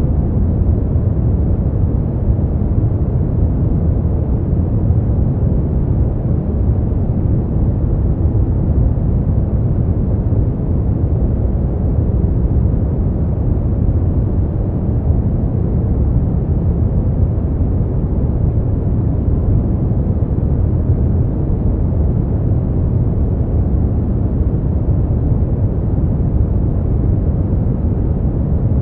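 Brown noise: a steady, even rumbling hiss with most of its weight in the low end and little above the mid range, unchanging throughout.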